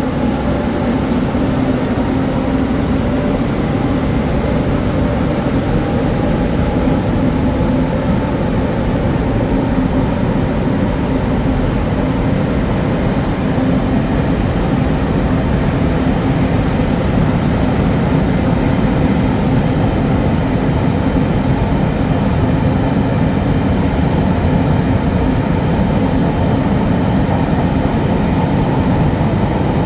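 A train running by with a loud, steady rumble and a constant humming note.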